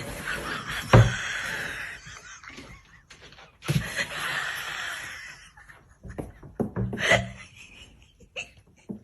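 A person laughing in two stretches, with a sharp knock about a second in.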